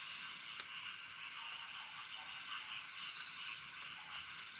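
Night chorus of calling frogs and insects: high chirping pulses repeating over and over, with one faint click about half a second in.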